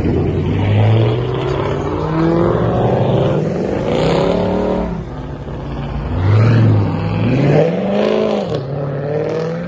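Car engine revving several times, the pitch climbing and dropping back with each blip of the throttle; the biggest rev comes about three-quarters of the way through.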